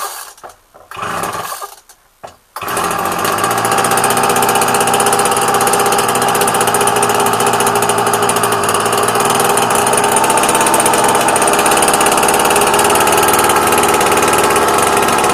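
Flymo Maxi Trim two-stroke petrol string trimmer being pull-started from cold on half choke: a few short pulls of the starter cord, then the engine catches about two and a half seconds in and runs steadily and loudly.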